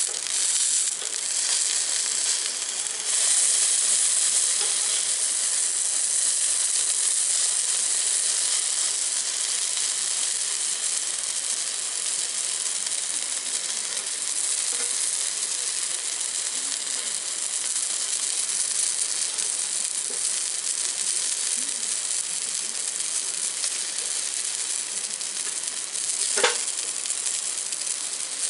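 Food frying in a hot pan, a steady sizzle that is loudest in the first few seconds, with a single sharp click near the end.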